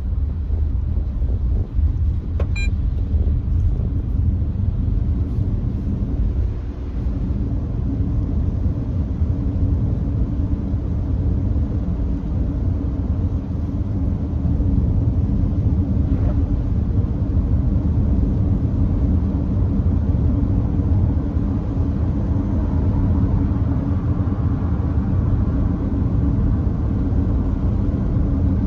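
Nissan Note e-POWER cruising at a steady speed on a wet expressway, heard from inside the car: a steady low rumble of road and tyre noise with a wet-road hiss, getting slightly louder past the middle. A brief click about two and a half seconds in.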